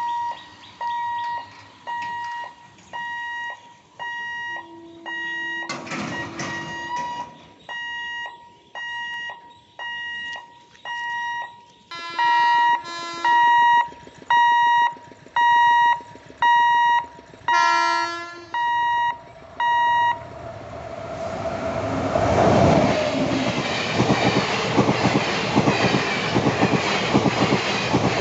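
Level-crossing warning beeper sounding a high electronic beep about once a second, joined a few times by a train horn, as the WAP7 electric locomotive and the Teesta Torsha Express approach. About twenty seconds in the beeping stops and the train passes at high speed: a rising roar with rapid clickety-clack of wheels over the rail joints.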